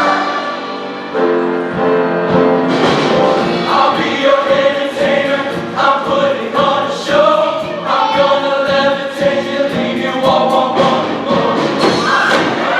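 Music with a choir singing held notes over a steady beat.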